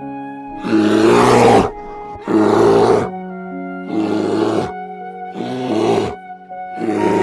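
Five loud, harsh animal calls, each under a second long and about a second and a half apart, over soft background music.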